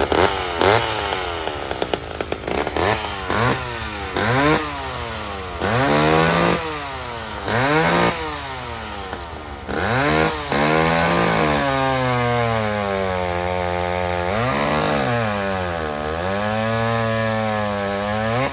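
Vintage two-stroke chainsaw engine blipped through a run of quick revs, rising and falling every second or so. From about twelve seconds in it is held at high speed, the pitch sagging once and recovering.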